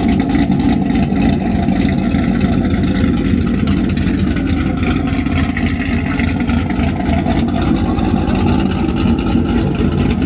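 A car engine running at a steady speed: a continuous low drone with no revving or change in pitch.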